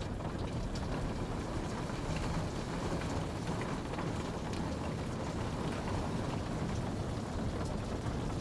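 Steady rainfall, a dense even hiss with many small drop patters.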